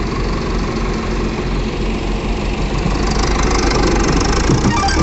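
Tractor diesel engine running steadily, getting louder about three seconds in.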